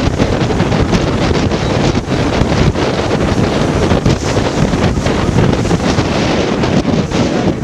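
Strong wind buffeting the microphone, over waves and water rushing past a sailboat's hull as it sails fast in 23 to 25 knots of wind.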